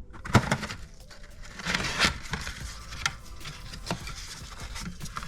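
Handling noise from parts being picked up and set down: a few sharp knocks and clicks, with some rubbing and scraping about two seconds in.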